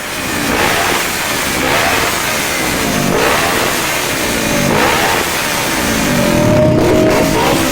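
Motorcycle engines revving, the pitch climbing and dropping about five times.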